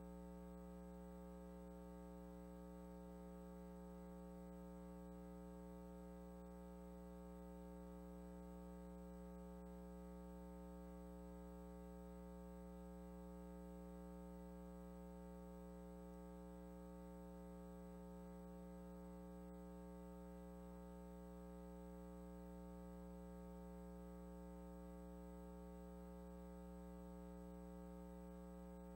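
Faint, steady electrical hum with many overtones and no change throughout: mains hum in the sound or recording system.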